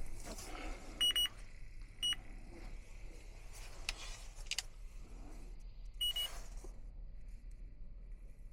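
Electronic refrigerant leak detector giving short high-pitched beeps: a quick triple about a second in, a single beep a second later, and another quick cluster at about six seconds. Light clicks and handling rustle in between.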